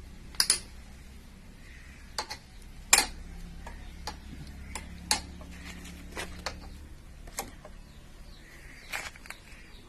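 Irregular sharp metallic clicks and taps of a spanner working the 8 mm bolts of a motorcycle engine's valve cover as they are undone, with a faint low hum behind that fades out after about seven seconds.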